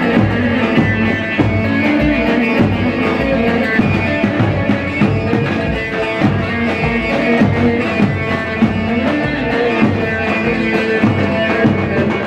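Halay dance music: a bağlama (long-necked Turkish lute) plays the melody over a steady drum beat.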